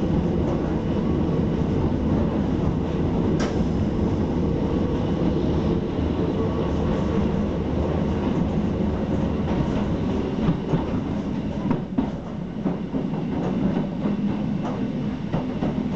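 Hakone Tozan Railway electric train running, heard from inside the passenger car: a steady rumble and hum. There is a sharp click about three seconds in, and short wheel clicks come more often in the second half.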